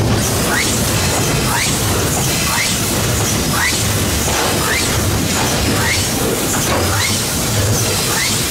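Narrow-gauge Hudswell Clarke locomotive working hard up a steep grade: a steady heavy running noise with a low hum, and a short rising squeak about once a second.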